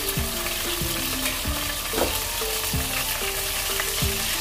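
Onions and chopped tomatoes sizzling in hot oil in a pan while a wooden spoon stirs them, with soft music playing underneath.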